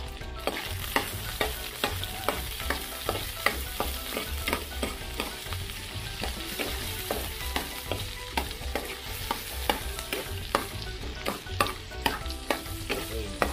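Onion, garlic and tomato wedges sizzling in hot oil in a frying pan as they are stirred with a large metal spoon: a steady sizzle with frequent clicks and scrapes of the spoon against the pan.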